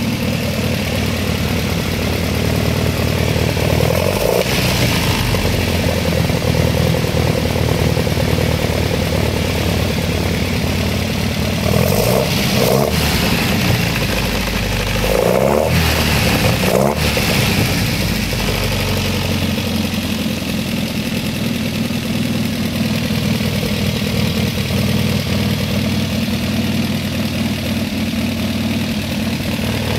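Alfa Romeo 2.0 twin-cam four-cylinder engine idling steadily on freshly rebuilt and retuned Solex C40 ADDHE carburettors. About halfway through, the revs rise and fall briefly a couple of times.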